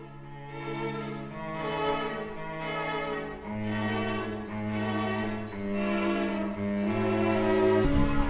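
Orchestral music led by bowed strings, violins and cellos holding long notes over a low line that drops to a deeper note about a third of the way in; percussion begins just at the end.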